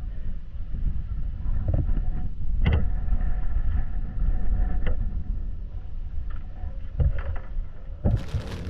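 Dirt bike engines running at the motocross track under a heavy, gusting rumble of wind on the microphone, with a few short knocks.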